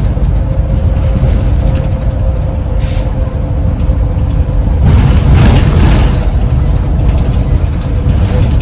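Scania Omnicity bus on the move: a steady engine and drivetrain rumble with a constant whine above it. A short hiss comes about three seconds in, and a louder rushing noise swells and fades around five to six seconds in.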